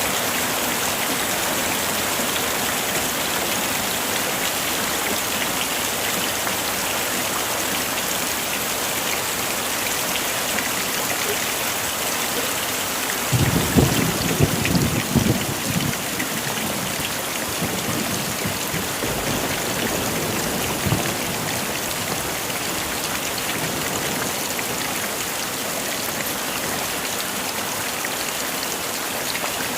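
Heavy rain falling steadily, with a short rumble of thunder about halfway through and a fainter one a few seconds after.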